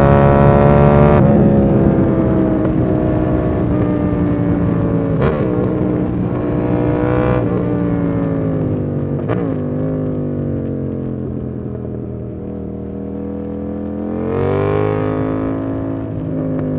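KTM 890 Duke R's parallel-twin engine on the move: the throttle closes about a second in and the revs sink slowly, with three short sharp cracks along the way, then it pulls and rises again near the end.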